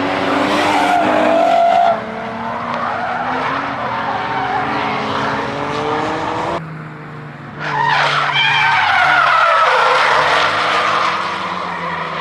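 Drift cars sliding on track: engines running hard at high revs with tyres screeching. It comes in two stretches that start and stop abruptly, with a quieter gap of about a second near the middle.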